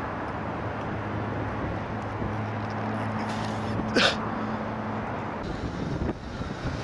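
A parked car's engine idling with a steady low hum over outdoor background noise; the hum stops about five and a half seconds in. About four seconds in, one brief, sharp, high yelp-like sound is the loudest thing heard.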